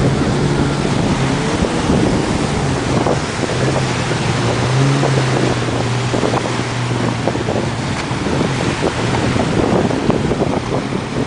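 Kawasaki SX-R 800 stand-up jet ski's two-stroke twin engine running at low speed with a steady tone that fades after about seven seconds, over heavy wind noise on the microphone and splashing water.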